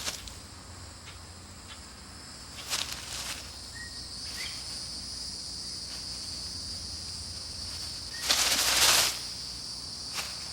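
Night insects chirring steadily on several high pitches, with two short bursts of rustling, one about three seconds in and a longer one near the end.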